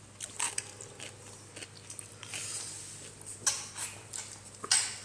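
Wet chewing and mouth smacks while eating chicken: irregular short clicks and smacks, the loudest near the end.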